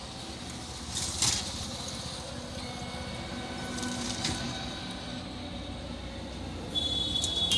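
Road traffic passing: a steady rumble of engines and tyres, with short metallic clatters about a second in and again a few seconds later, and a high-pitched ringing near the end.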